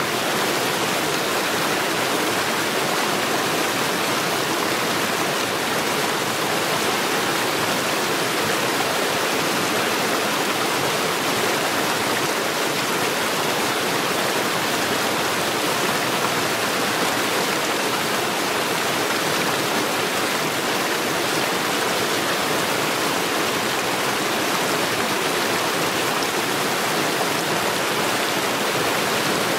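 Mountain stream rushing over rocks: a steady, even wash of flowing water without change.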